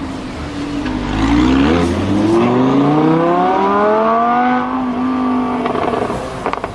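Lamborghini Huracán LP610-4's V10 engine accelerating hard, its pitch rising steadily for about three seconds, holding briefly, then dropping away as the throttle comes off. A few sharp cracks follow near the end.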